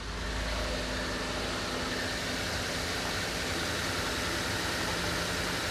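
Ford F-150 engine idling steadily, running again after the blown fuel pump control module fuse (number 20) that caused its crank-no-start was replaced.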